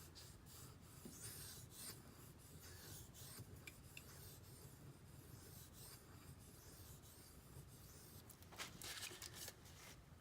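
Faint, light strokes of a D2 steel Benchmade Griptilian knife blade scraping across a whetstone, a soft scratchy hiss with each pass. The pressure is kept very light to buff out feathering scratches above the bevel. The longest, loudest stroke comes near the end.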